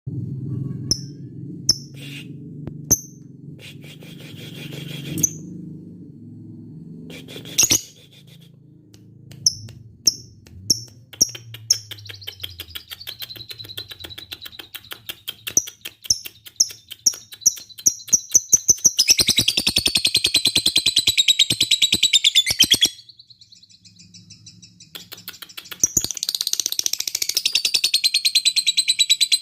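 Lovebird calling: sharp single chirps about a second apart, then a fast run of rapid ticking chirps, the 'ngetik' typing-like call, that thickens into dense shrill chattering. The chatter stops briefly about 23 s in and starts again about 26 s in.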